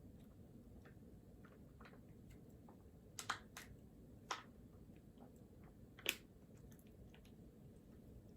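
Quiet room tone with a scattering of small clicks and taps from desk work, four of them sharper and louder, about three, three and a half, four and a half and six seconds in.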